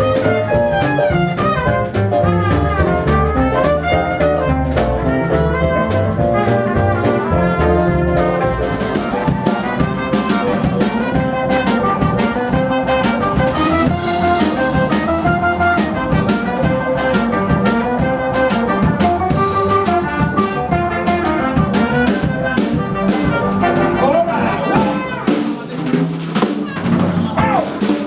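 Live swing band playing an instrumental passage: horn lines over a steady drum-kit beat and bass, with the low end dropping away near the end.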